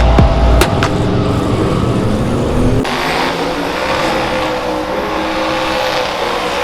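Drag-racing truck engines running loudly at the strip, with an abrupt change in the sound about three seconds in.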